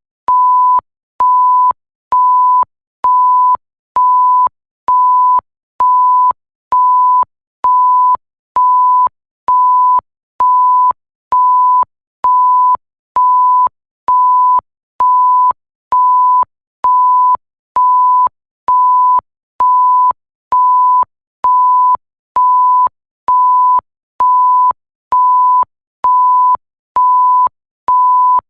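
Electronic bleep: a single steady pure tone repeating evenly, a little more than once a second. Each beep lasts well over half a second with a short gap between, and it starts and stops with a faint click.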